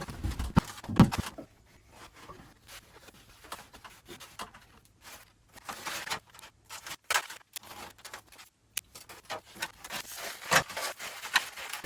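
Rafter vent baffles being handled and fitted between ceiling joists: a few knocks in the first second or so, then irregular short scraping, rustling and tearing noises that grow busier towards the end.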